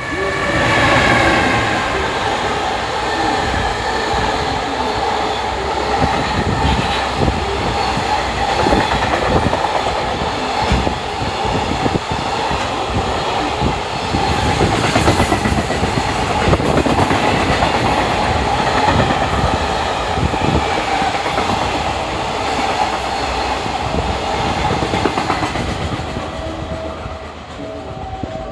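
Freight train hauled by an EF210 electric locomotive passing through a station at speed: the sound rises suddenly as the train arrives, then wagon wheels clatter over rail joints with a continuous heavy rumble, easing off near the end.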